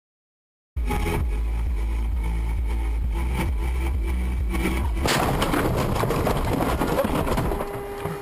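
Car on the road with a steady low engine and road rumble, then about five seconds in a sudden loud, rough crash noise lasting a couple of seconds. A steady tone follows near the end.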